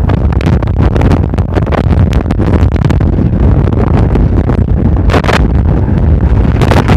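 Strong mistral wind blowing hard against the microphone: a loud, continuous rumble with irregular crackling buffets, gusting harder near the end.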